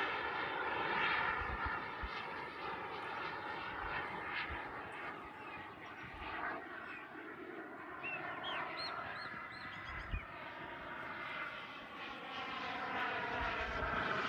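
Turbine engine of a 2.2 m ViperJet RC model jet in flight, its sound swelling and fading as the plane passes. It is loudest at the start and again near the end, and quieter in the middle.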